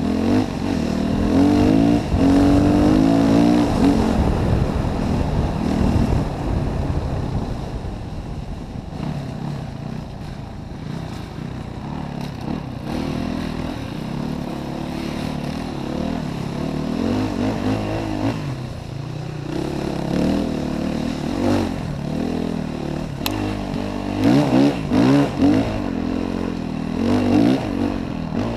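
Yamaha WR450F enduro motorcycle's single-cylinder four-stroke engine pulling under throttle, loudest and revving hard in the first few seconds, then running lower and steadier, with several short bursts of throttle near the end.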